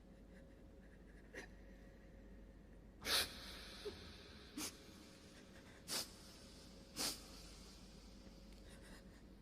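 Five short, sharp breaths through the nose over faint room noise, the loudest about three seconds in.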